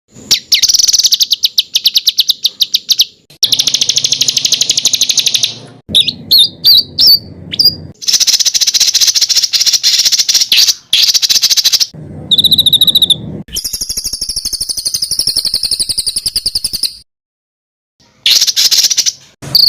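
Songbird masteran track of rapid, dense, high-pitched rattling trills and chattering 'tembakan' phrases ('jrojos' and 'ngedur' material), spliced one after another with abrupt cuts and a brief silent gap near the end.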